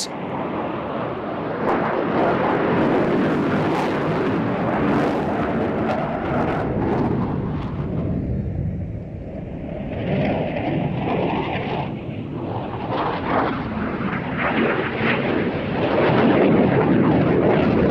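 Jet noise from two RAF Tornado GR4s, each with twin RB199 turbofans, flying a low display pass. The loud, continuous jet noise eases briefly about eight seconds in and builds again near the end.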